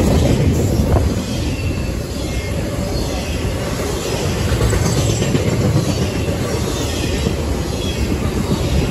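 Double-stack intermodal freight cars rolling past close by: a steady rumble of steel wheels on rail, with short, thin wheel squeals here and there.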